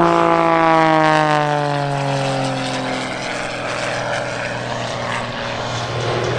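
Wolf Pitts Pro aerobatic biplane's piston engine and propeller, a loud drone that falls in pitch over the first few seconds, then holds steadier and climbs slightly near the end.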